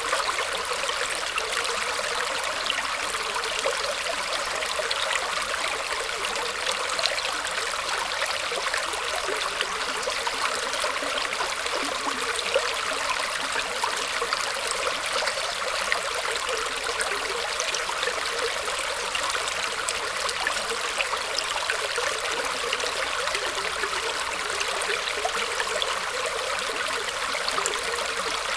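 Small stream of water trickling and gurgling over roots, a steady bright rush with fine splashy ticks and no change in level.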